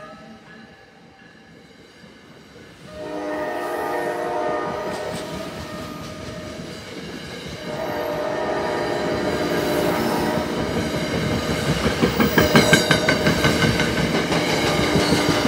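A passenger train's coaches rolling past, wheels clattering over the rail joints, loudest a little past the middle. Over it, the NJ Transit ALP-46A electric locomotive's horn sounds in long blasts, beginning about three seconds in with a brief break about halfway.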